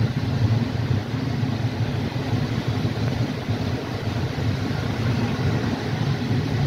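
Passenger train rolling along the track, heard from inside the carriage as a steady low rumble with no distinct wheel clicks.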